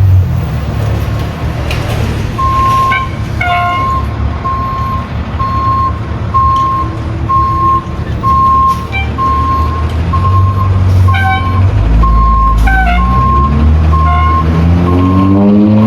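Fire engine's diesel running with a backup alarm beeping evenly, a little faster than once a second. Near the end a rising whine starts up under the beeps.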